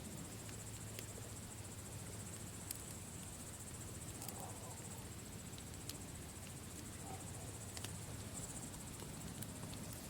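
Campfire crackling with scattered sharp pops, over a steady high chirring of crickets.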